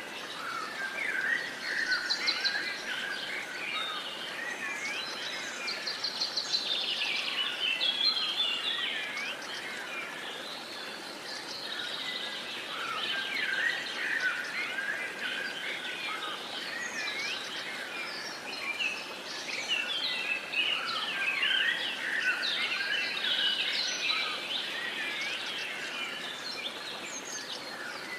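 A chorus of many songbirds singing and chirping at once, dense overlapping trills and whistles with no single bird standing out, over a faint steady background hiss.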